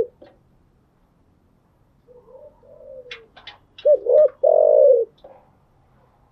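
Spotted dove cooing. After a couple of seconds of quiet, soft low coos lead into two short, loud hooked notes and one long drawn-out final note, about four seconds in.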